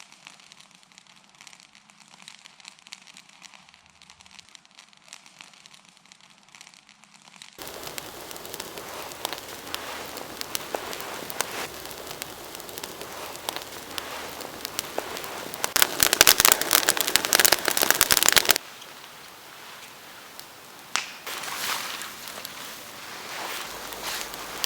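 Large bonfire of storm-fallen branches crackling and popping, a dense run of sharp snaps. The sound changes abruptly twice, and the crackling is loudest and densest for a few seconds about two-thirds of the way through.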